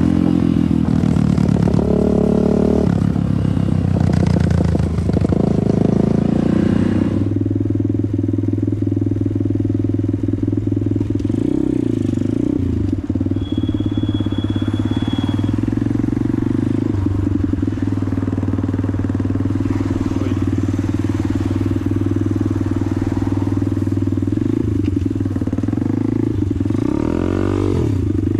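Motorcycle engine running under way, its pitch mostly holding steady. There is extra rushing hiss over the first several seconds, and a quick rise and fall in pitch near the end.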